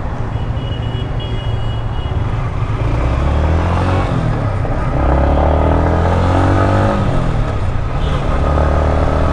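A Yamaha MT-15's single-cylinder engine running, with the revs rising and falling once around the middle.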